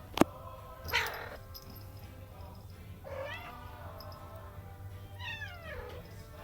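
Domestic cat meowing three times, the last call falling in pitch, begging for food. A sharp click comes just before the first meow.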